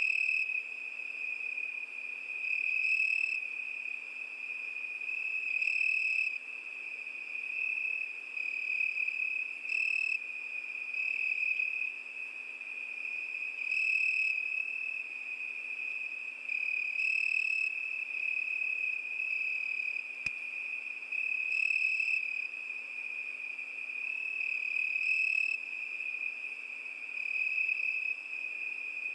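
Cricket trilling without a break, a steady high-pitched tone that swells louder every three to four seconds.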